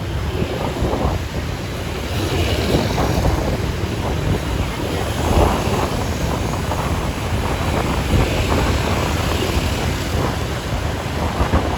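Street traffic noise, a steady rumble of passing vehicles, with wind buffeting the microphone.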